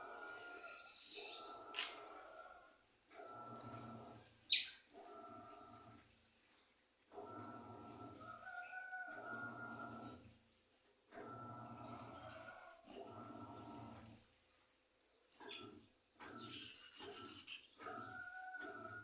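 Small birds at sugar-water feeders giving many short, high chirps. A lower sound with steady tones comes and goes in stretches of a second or two.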